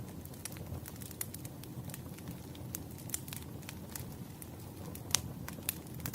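Wood fire burning: a low steady rumble of flames with irregular crackles and pops of burning logs, the sharpest pop about five seconds in.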